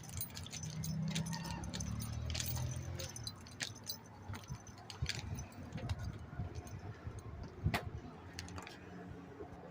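Footsteps climbing tower stairs, with irregular clicks and light jingling throughout and a low rumble in the first few seconds.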